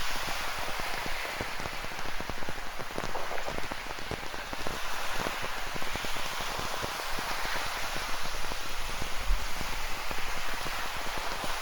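Steady rain: a dense, even patter of raindrops falling on a surface.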